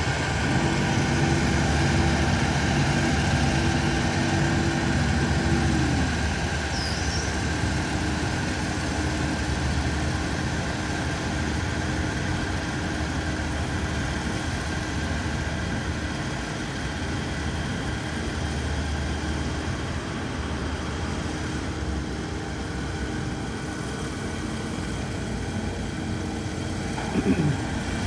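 Rice harvester's engine and cutting machinery running steadily during perimeter cutting; the engine note steps up just after the start and drops back about six seconds in. A short sharp sound near the end.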